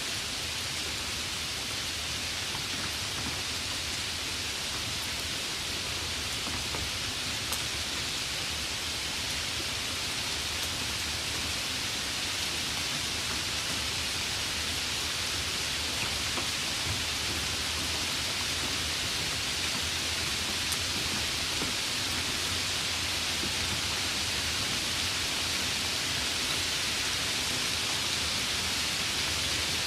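Steady heavy rain, an even hiss of downpour with a few faint drop ticks and no change in intensity.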